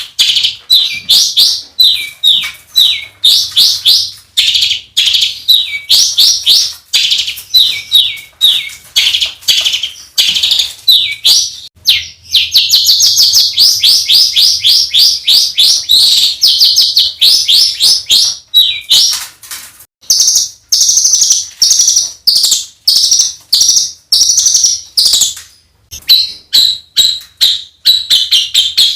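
Songbird singing harsh, rapid 'tembakan kasar' notes of the kind used as masteran to train competition birds: loud runs of short, high notes, each sweeping downward. About twelve seconds in they run together into a long unbroken volley, and later the notes sit higher.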